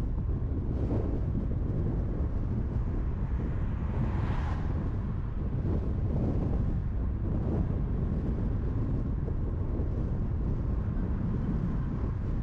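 Steady rumble of tyres on the highway and wind noise as a car drives at speed, with a brief louder whoosh about four seconds in.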